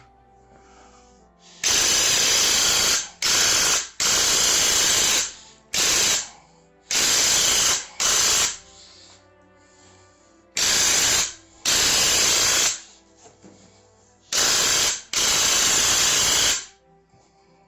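Paint sprayer fired in about ten short trigger bursts of hissing spray, each half a second to a second and a half long, starting and stopping sharply, coating a cabinet door.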